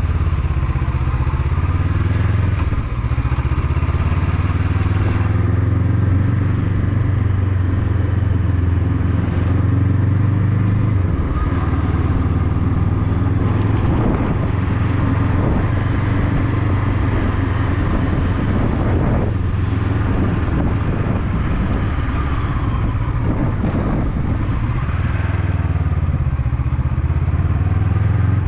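Motorcycle engine running steadily under way, its low drone holding level with small changes in pitch.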